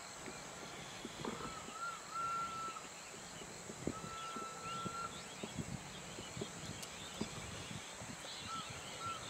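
Birds calling: a long, slightly wavering whistled note heard three times, and scattered faint chirps. Under them are soft rustles and light knocks from handling.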